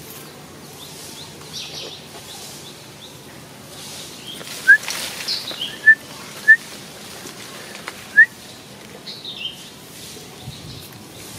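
Birds chirping: four short, sharp chirps in the middle stretch, with fainter downward-sliding calls between them and near the end.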